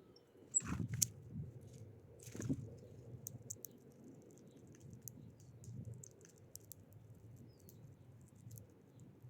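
Small wild birds at a feeder: irregular sharp taps and clicks, the loudest in the first three seconds, with a few short, high chirps.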